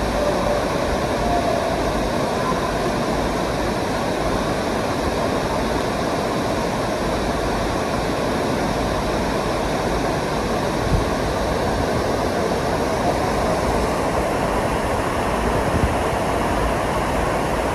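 Stream water rushing steadily, with a single short knock about eleven seconds in.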